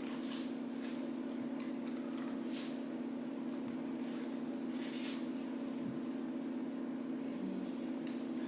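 A steady low hum in a small room, with a few brief soft rustling hisses about a second or two apart.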